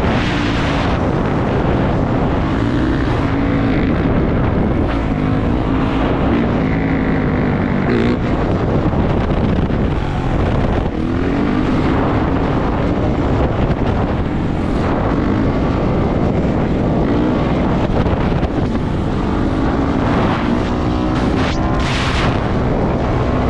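450cc four-stroke dirt bike engine running under way, its pitch repeatedly climbing and dropping as the rider works the throttle and gears, with wind buffeting the microphone.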